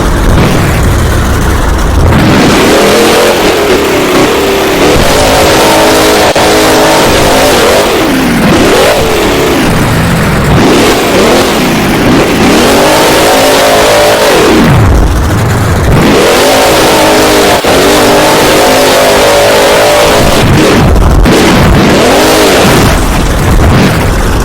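Monster truck engine revving hard, its pitch climbing and dropping again and again as the throttle is worked through the run. The recording is very loud and distorted.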